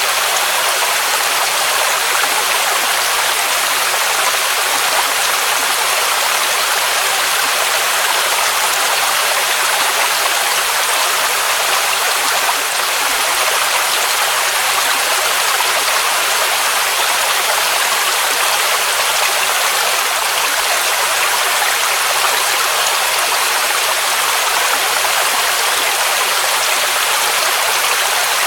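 Waterfall rushing in a steady, unbroken hiss, with almost no deep rumble beneath it.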